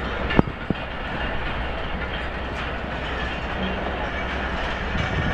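Pakistan Railways passenger coaches rolling slowly along the platform with a steady rumble of wheels on rail. Two sharp knocks come about a third of a second apart near the start.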